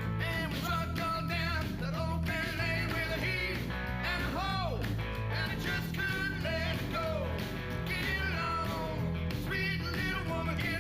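Live rock and roll band playing: driving bass and drums with a lead line that bends and wavers in pitch over the top.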